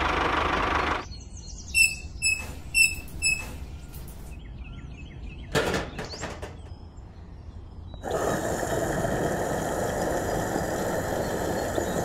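Steady mechanical running noise that cuts off about a second in. A few short high chirps follow, then a single sharp knock. Steady running noise starts again suddenly about eight seconds in.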